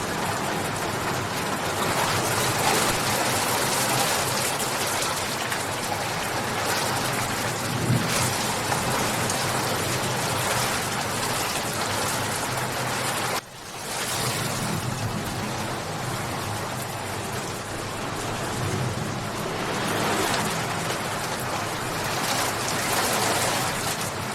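Steady, dense rainfall, an even hiss of drops. It cuts out for an instant about halfway through and swells back in.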